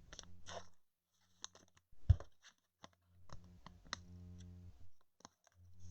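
Trading cards being handled on a table: scattered small clicks and taps, with one louder thump about two seconds in, over a faint low hum that cuts in and out.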